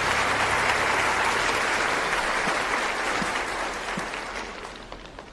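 Audience applauding, fading away steadily over the last couple of seconds.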